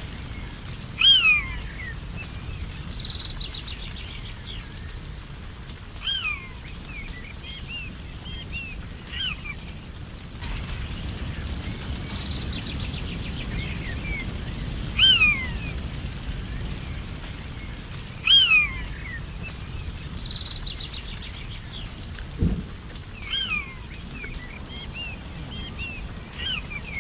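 Forest birds calling: a loud, sharp, falling whistle repeated every few seconds, with short rapid trills in between, over a steady low background noise. A single brief knock comes near the end.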